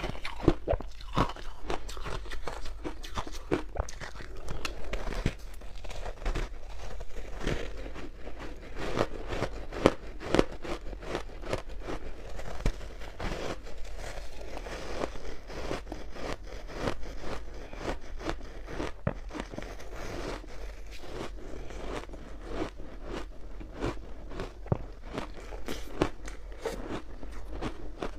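Close-miked chewing of crunchy ice cubes dusted with matcha powder: a dense, irregular run of sharp cracks, several a second.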